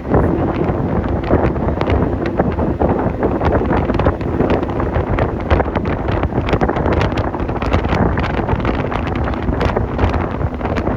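Wind buffeting the microphone in a loud, steady rush, with many short crackles scattered through it.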